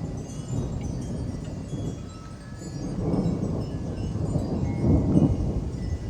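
Wind chimes ringing irregularly in gusty wind, with a low roll of thunder swelling about halfway through and peaking near the end.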